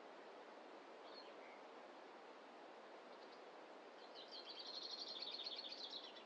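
A small songbird gives a brief high chirp about a second in, then a rapid high trill of many quick notes from about four seconds in, lasting about two seconds. Both sound over a faint steady hiss of forest ambience.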